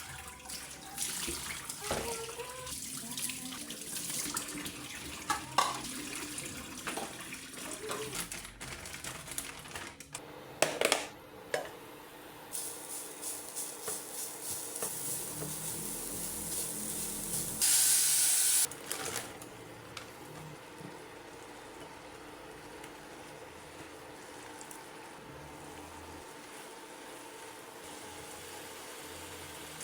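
Scattered clinks and knocks of household handling, then a short burst of running water, about a second long, that starts and stops abruptly, over a steady faint hum.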